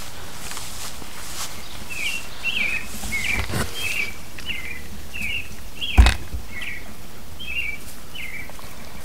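A bird calling over and over, a string of short chirps at about two a second, over a steady background hiss. A sharp thump about six seconds in is the loudest sound, with a softer knock a couple of seconds before it.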